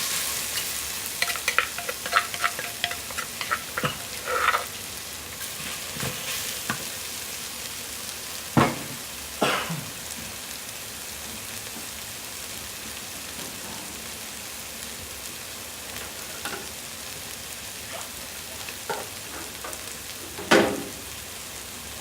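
Curry paste sizzling as it fries in a little oil in a pot, stirred with a utensil that clicks and scrapes against the pot, with rapid clicks over the first few seconds. There are a few louder knocks of the utensil on the pot, two around the middle and one near the end.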